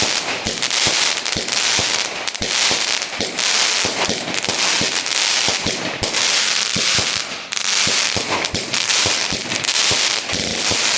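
Lightning Force display-in-a-box firework cake firing a continuous barrage: a dense crackling hiss with many sharp bangs packed through it.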